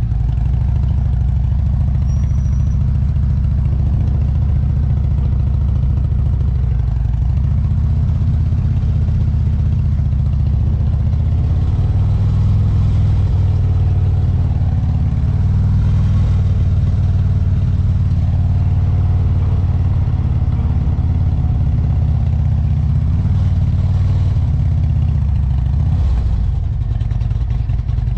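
Motorcycle engine running at low speed through slow-maneuver drills, its pitch rising and falling as the throttle is worked.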